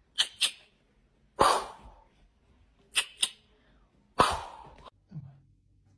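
A cat giving a run of short, sharp, sneeze-like bursts of breath: two quick pairs and a few longer puffs that fade out.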